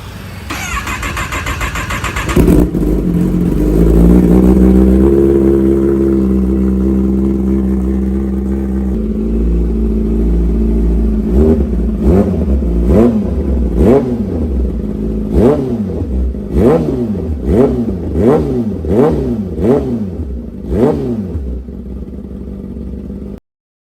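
Kawasaki ZX-10R inline-four sportbike engine through a loud exhaust being cranked over and catching about two seconds in. It runs at a raised idle that settles, then is blipped about a dozen times in quick succession, the revs rising and falling with each blip, before cutting off suddenly near the end.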